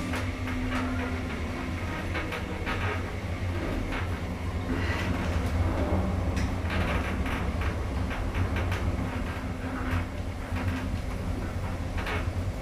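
Otis Gen2 lift car running in its shaft: a steady low rumble and hum with scattered clicks and rattles.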